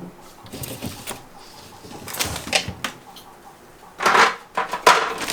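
Things being lifted out of a refrigerator and handled: scattered rustling and light knocks, with the loudest rustles about four seconds in and again just before five seconds.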